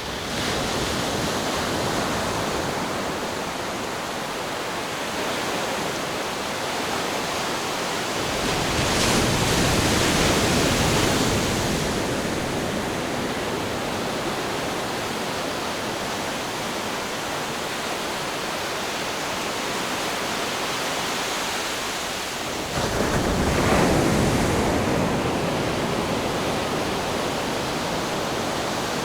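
Ocean surf washing in steadily, with two louder waves: one swelling about nine seconds in, and one breaking suddenly about twenty-three seconds in.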